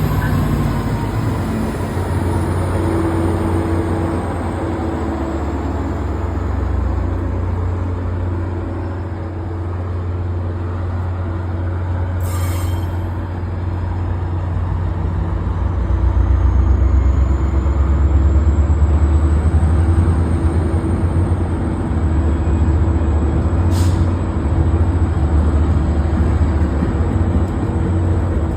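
Passenger train running: a steady heavy low rumble with a constant hum, a faint high whine that slowly falls and then rises, and two short sharp clacks, about twelve and twenty-four seconds in.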